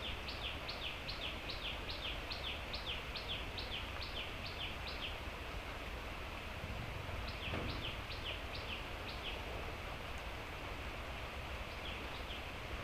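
A bird repeats a quick series of short, falling high notes, about three a second, for several seconds, then again after a pause and faintly near the end, over a steady hiss of light rain.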